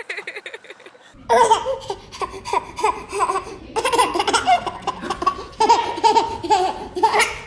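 A baby laughing hard, one laugh after another, starting about a second in.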